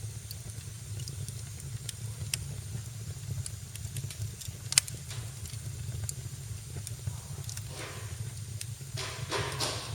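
Fire burning in a fireplace, crackling over a steady low rumble, with scattered sharp pops. The loudest pop comes about five seconds in, and there is hissing twice near the end.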